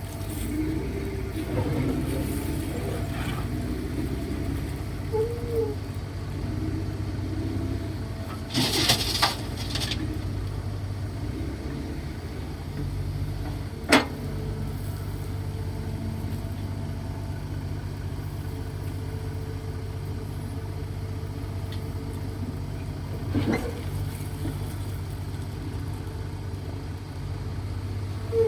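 Kobelco SK135SR excavator's diesel engine running steadily while it digs, with a loud rushing burst about nine seconds in and sharp knocks twice later on.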